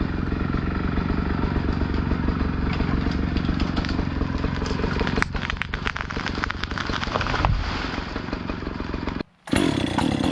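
Husqvarna chainsaw idling with a steady pulsing run. About five seconds in, a burst of crackling and clattering lasts a couple of seconds. Near the end the sound cuts out briefly and comes back with the saw revving.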